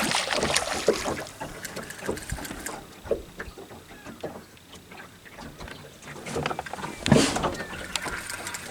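Scattered knocks, scuffs and handling noises in a jet boat as a freshly caught catfish is held and struggles, with a louder clatter about seven seconds in.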